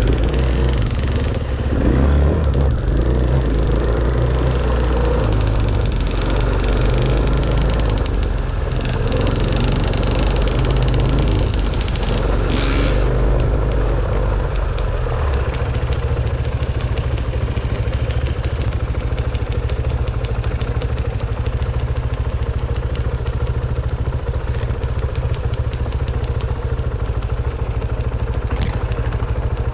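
Dirt bike engine running during trail riding, rising and falling with the throttle through the first half, then settling into a steady low-speed run with fine, even firing pulses for the rest.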